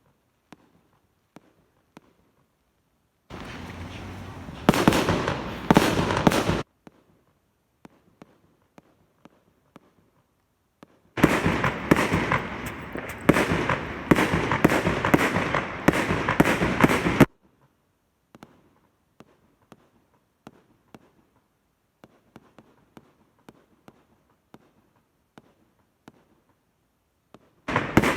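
Fireworks going off: spells of dense crackling and bangs, a shorter one a few seconds in and a longer one of about six seconds in the middle, with scattered faint pops between. Another loud spell starts near the end.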